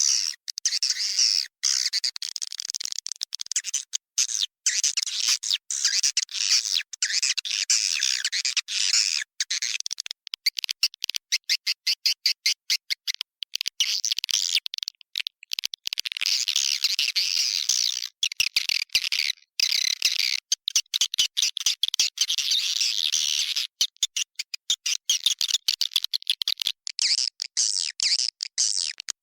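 Edible-nest swiftlets twittering in a dense, high chattering chorus: a recorded lure call of the kind played to draw swiftlets into a nesting house and keep them roosting. The sound cuts in and out abruptly many times, with quick stuttering gaps through the middle.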